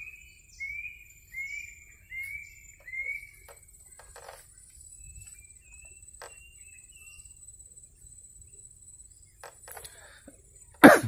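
A bird repeats a short whistled call about five times in quick succession, each note slurring downward, followed by fainter scattered notes. A thin steady high tone runs underneath. A single sharp knock near the end is the loudest sound.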